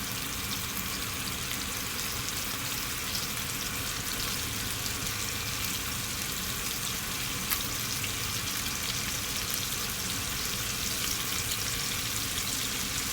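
Chicken pieces frying in oil in a pan, a steady sizzle, with one light click about seven and a half seconds in.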